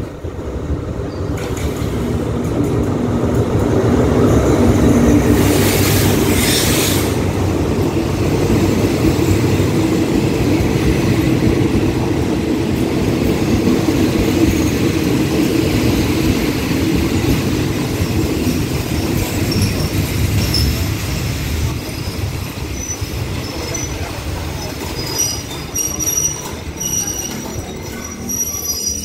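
A diesel-hauled passenger train on the State Railway of Thailand running into the station, with a steady low rumble of the locomotive and coaches rolling past, loudest about five seconds in. A brief hiss comes around six seconds in, and high wheel and brake squeals come and go over the last third as the train slows to a stop.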